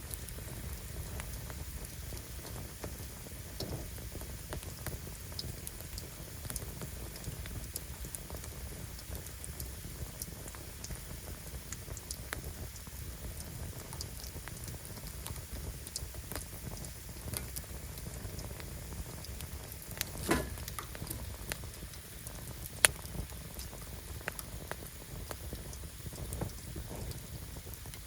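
Firewood fire crackling steadily, with many small snaps and a low rush of flame. A sharp, loud pop comes about 23 seconds in.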